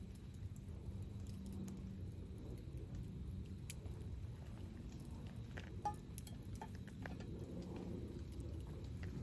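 Wood campfire crackling: scattered small pops and snaps over a low steady rumble, with one sharper pop about six seconds in.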